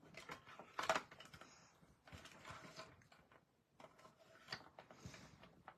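Clicks and knocks of cutting plates and a die being handled and lined up in a small manual die-cutting machine, with a sharp click about a second in.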